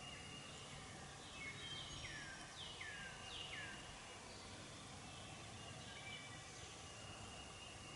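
Faint songbird singing: a run of quick whistled notes that each slide downward in pitch, about one and a half to four seconds in, with thinner high notes from other birds later, over a light steady outdoor hiss.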